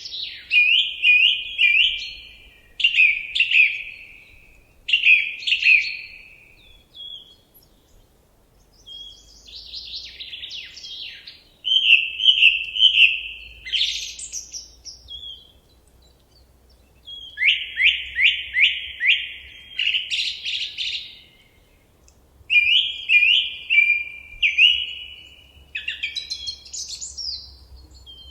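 A songbird singing in phrases of quick repeated notes, a new phrase every few seconds with short pauses between.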